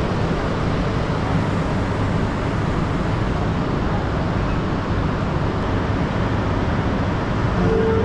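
Steady rushing rumble of a Shinkansen train running at speed, even in level throughout.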